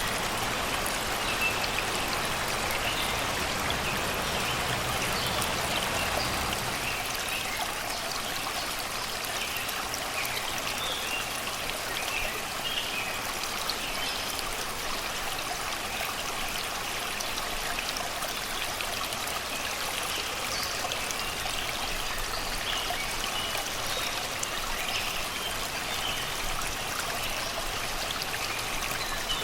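Shallow river water flowing and babbling steadily over rocks and stones, with birds singing in short chirps throughout.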